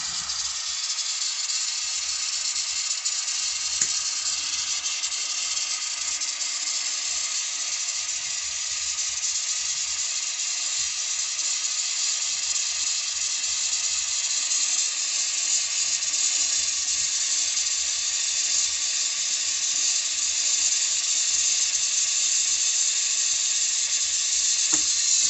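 Oxygen and MAP gas torch flame hissing steadily while it heats a refrigerator's steel refrigerant line to unsweat the joint, growing slightly louder toward the end.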